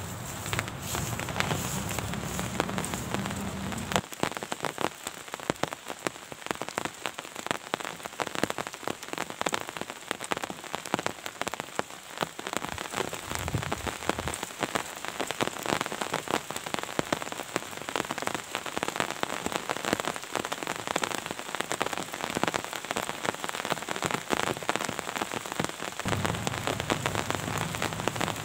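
Steady rain falling, a dense patter of drops striking a surface. A low rumble sits under it for the first four seconds and again near the end.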